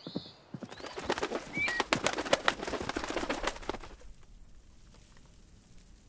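A flock of birds taking flight: a dense flurry of wing flaps with a few short chirps, dying away about four seconds in.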